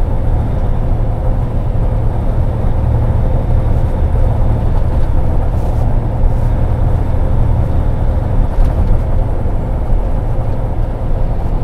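Steady low rumble of a semi-truck's diesel engine and road noise heard from inside the cab while driving, with a faint constant hum running under it.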